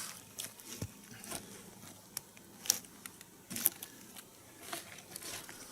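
Scattered light clicks and knocks, a handful over several seconds, with one low thud about a second in: small handling noises of logs and wood being shifted into place.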